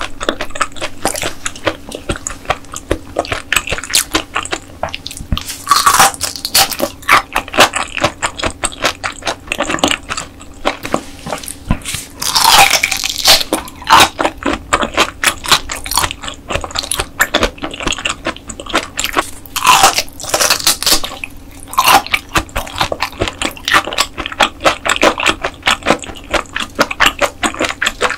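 Close-miked crunching and chewing of raw dotted gizzard shad sashimi eaten bone-in: rapid crisp crunches as the small bones break, with a few louder bursts.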